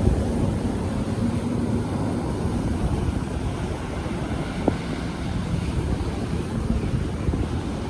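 A launching ski-boat's outboard engine running, its tone fading out about three seconds in, under steady wind buffeting the microphone and breaking surf. A single short click about halfway through.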